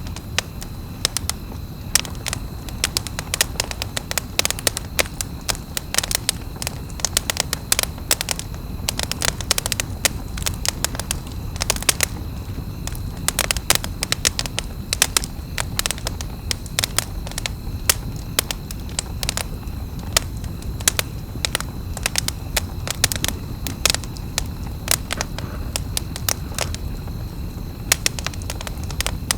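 Wood campfire burning, crackling with frequent sharp irregular pops and snaps over a steady low rush of flame.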